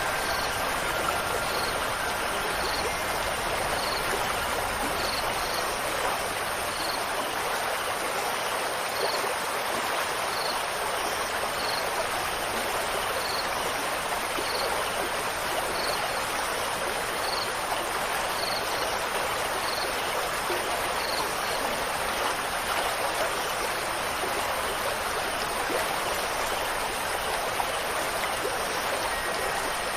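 Steady rushing water, a continuous even wash like a stream or steady rain, with faint high chirps about once a second. A soft ringing tone dies away in the first few seconds.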